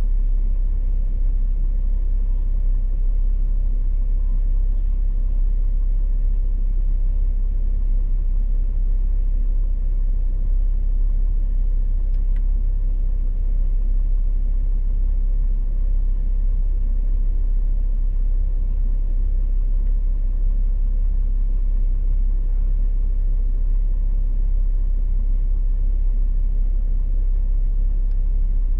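Vehicle engine idling: a steady low rumble that does not change.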